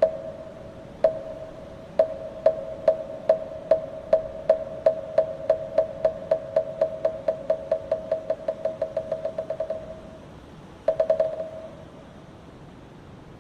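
Moktak, the Korean Buddhist wooden fish, struck in slow, even knocks that speed up into a fast roll and stop, then a short quick flurry about a second later.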